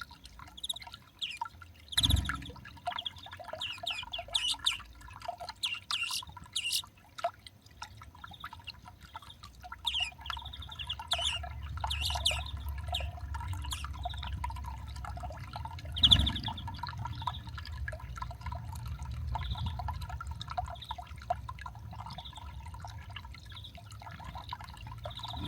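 Small garden birds at a feeder chirping and calling in quick, short notes, with two sharp thumps about two seconds and sixteen seconds in, the second the loudest, and a low rumble that builds from midway.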